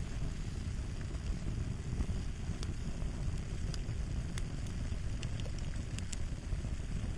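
Wood fire crackling: a steady low rumble of burning with scattered sharp pops and snaps, a handful of them from about two and a half seconds in.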